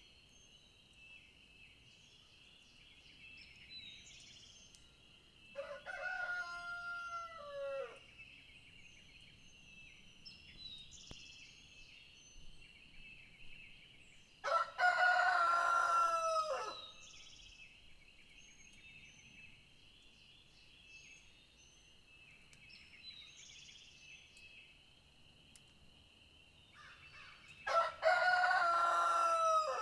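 A rooster crowing three times, the first crow fainter than the other two, over small bird chirps and a steady high-pitched drone.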